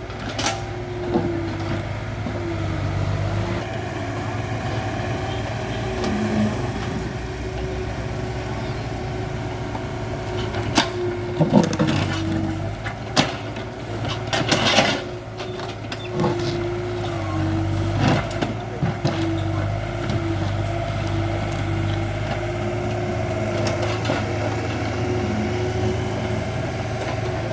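Excavator's diesel engine running steadily under work, with a hydraulic whine that wavers in pitch. A few sharp knocks come through, most of them in a cluster around the middle.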